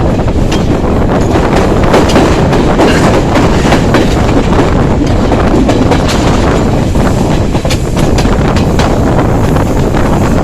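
Passenger train running along the track: a loud, steady rumble with irregular clicks of the wheels over rail joints, and wind buffeting the microphone.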